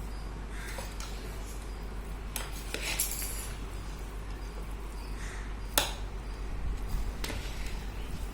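Metal kitchen utensils clinking against cookware, about five scattered clinks with the loudest about two-thirds through, over a steady low background hum.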